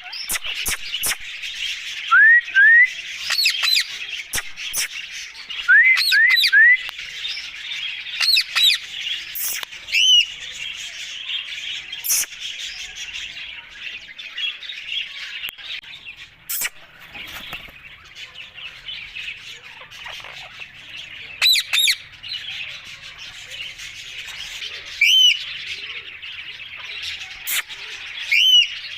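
Alexandrine parakeet calling: short rising whistled calls in twos and threes, and loud harsh squawks and shrieks every few seconds. A steady chatter of many smaller birds chirping runs behind it.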